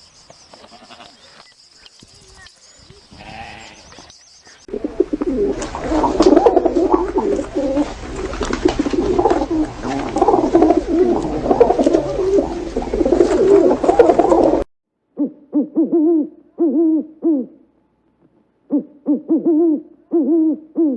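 Birds giving low-pitched calls: a dense, loud stretch of many overlapping calls, then two groups of separate short calls near the end.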